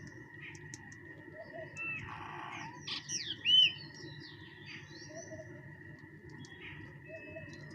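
Small birds calling and chirping, with a quick run of sweeping whistled notes about three seconds in, over a steady high-pitched hum.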